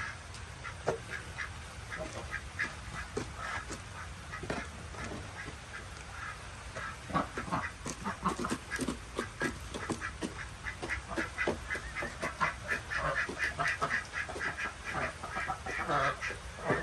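Ducks quacking, many short calls in quick succession that grow busier about halfway through.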